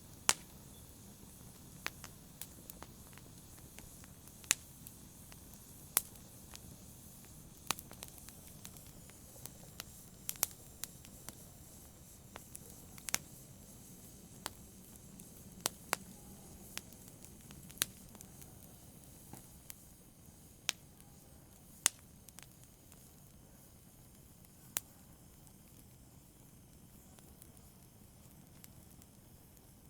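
Wood fire in a fireplace crackling: sharp, irregular pops over a soft low rumble of the burning logs, the pops growing sparser near the end.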